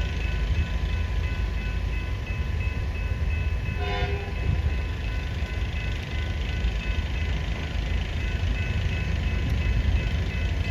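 A train passing over the level crossing with a steady low rumble. Crossing bells ring rhythmically for the first few seconds, and a short horn toot sounds about four seconds in.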